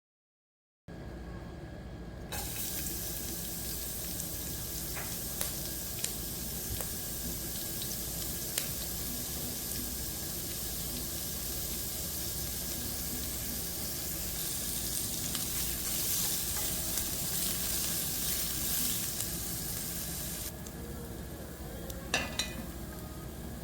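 Food sizzling as it fries in oil in a pan, with a few light knocks of a utensil stirring it. It starts after about a second of silence, the sizzle eases near the end, and a sharper clatter comes just after.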